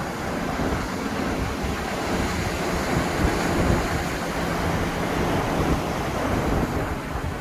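Ocean surf washing onto the beach in a steady rush that swells in the middle and eases near the end, with wind buffeting the microphone.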